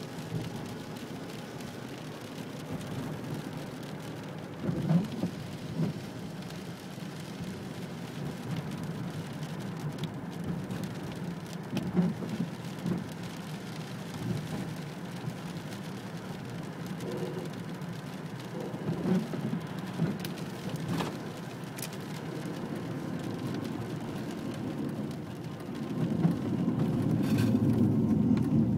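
Steady rain, with scattered sharp drips and taps. A car swells up on the wet road near the end.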